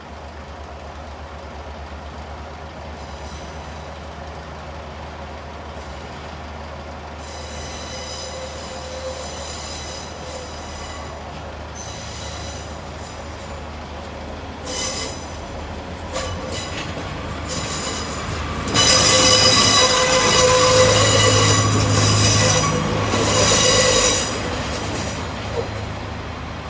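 Northern Class 142 Pacer diesel multiple unit passing along the platform road: a steady low diesel hum, with the wheels squealing in several high-pitched tones. It is loudest about two-thirds of the way through as the unit runs by close to the platform, then eases off.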